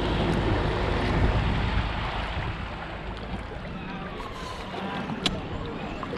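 Water splashing and lapping around a paddled kayak, with wind rumble on the camera microphone that is heaviest for the first two seconds and then eases. A single sharp tap about five seconds in.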